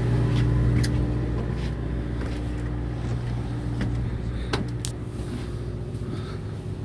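Steady low engine hum aboard a fishing boat, with a few sharp clicks.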